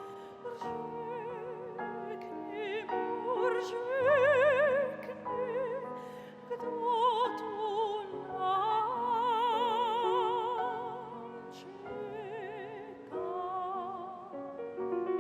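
Operatic singing with a wide vibrato on long held notes, over a piano accompaniment.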